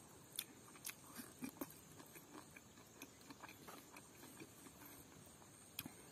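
Faint chewing and mouth sounds of a man eating rice and smoked chicken with his hands: soft smacks and sharp little clicks, irregular, a few a second.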